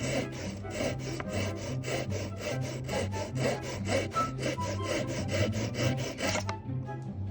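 Flush cut saw cutting wood in quick, even strokes, about five a second, stopping about six and a half seconds in. Background music plays underneath.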